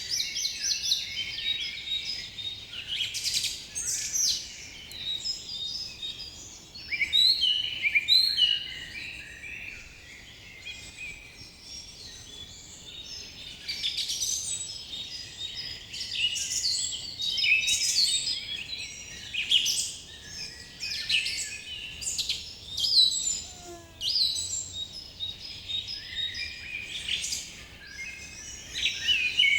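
A chorus of many birds singing and chirping at once, with dense overlapping quick chirps and warbles over a faint steady hiss.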